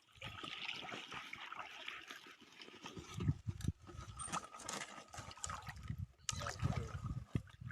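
Shallow water trickling and splashing, with scattered low knocks.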